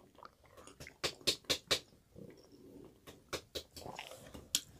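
A person chewing food with the mouth: quiet wet clicks and lip smacks, two runs of about four quick clicks and one more near the end.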